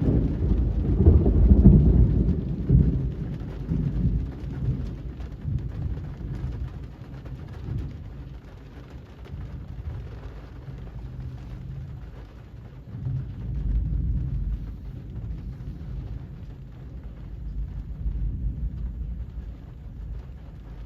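Steady rain on a street, with a sudden low rumble of thunder at the start that peaks about two seconds in and rolls away over several seconds. A weaker rumble swells again about two-thirds of the way through.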